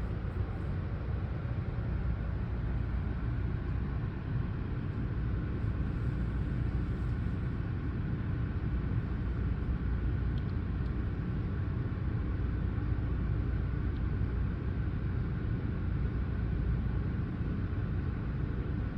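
Steady low rumble inside a passenger train carriage held at a stop signal: the hum of the car's onboard equipment and ventilation, with no distinct knocks or announcements.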